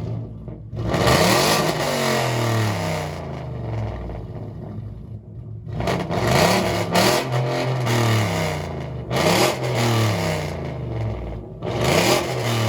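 Car engine with a loud exhaust revved hard about five times, each rev sudden and sharp, the pitch then falling away as the revs drop back toward idle.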